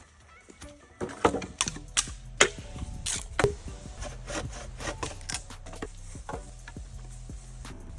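Sharp wooden knocks and clatters, a few loud ones in the first seconds, then lighter clicks.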